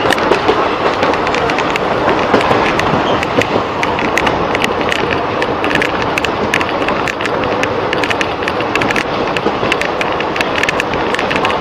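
Indian Railways passenger train running at speed, heard from an open coach door: a steady loud rumble of wheels on the rails with rapid clattering clicks.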